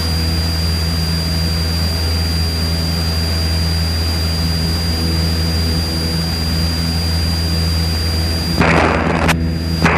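A Cessna 172's piston engine and propeller droning steadily in the climb, with a thin steady high whine over it. A short burst of hiss comes near the end.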